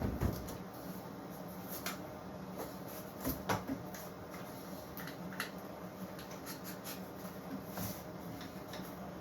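Scattered light knocks and clicks of wood pieces being handled at a workbench, a few sharper taps among them, over a steady low hum.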